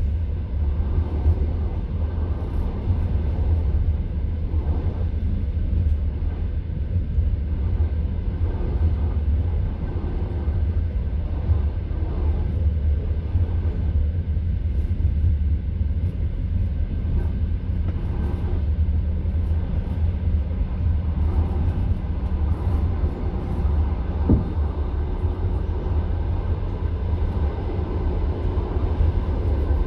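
Passenger train carriage rumbling steadily along the track, heard from inside the car, with one brief sharp click from the running gear about three quarters of the way through.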